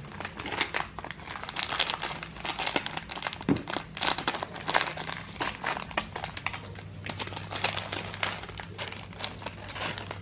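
Plastic snack packets crinkling and crackling irregularly as they are handled and opened.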